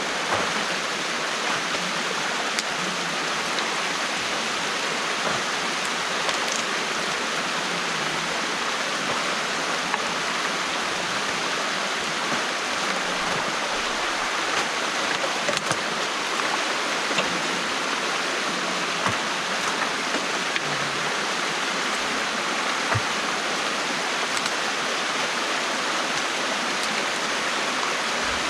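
Stream water rushing steadily through a beaver dam that is being taken apart by hand, with a few faint small ticks.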